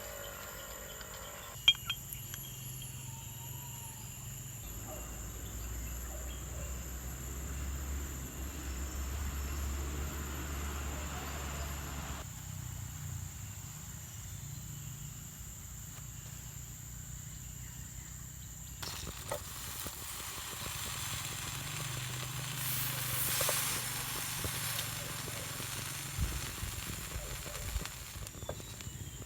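Food frying and sizzling in a pan, with the scrape and clink of a cooking utensil, over a steady high drone of rainforest insects.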